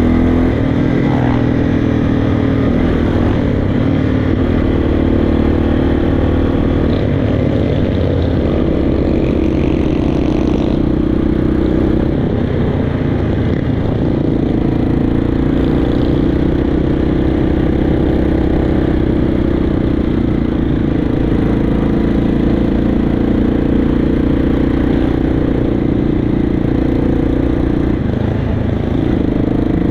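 Motorcycle engine running, its pitch shifting up and down several times as the throttle changes.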